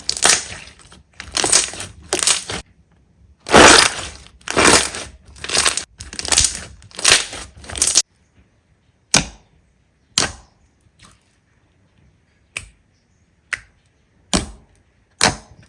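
Crunchy slime being squeezed and pressed: a run of loud crackling crunches, one after another, that stops about halfway through, followed by short sharp pops roughly once a second.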